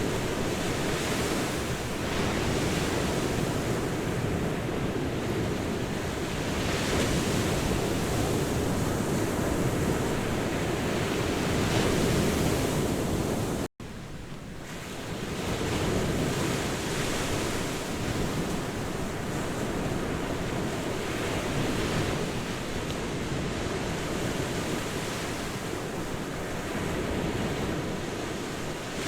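Ocean surf washing onto a beach, a steady rush that swells and eases every few seconds, with a momentary break about halfway through.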